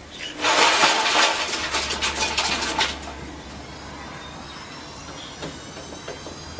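A loud clattering crash with many sharp clinks, starting about half a second in and lasting about two and a half seconds, followed by a steady low hum with faint high thin tones.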